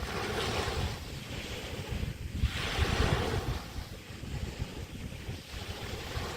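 Small waves breaking and washing up on a Chesapeake Bay beach, one surge just after the start and a louder one about two and a half seconds in, with wind rumbling on the microphone.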